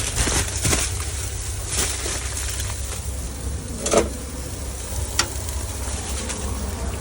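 Food sizzling on a griddle, over a steady low hum, with a few short knocks and scrapes; the loudest is about four seconds in.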